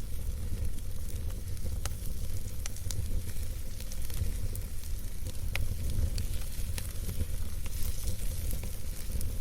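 Wood campfire burning, with a steady low rumble of the flames and scattered sharp crackles and pops of the burning wood.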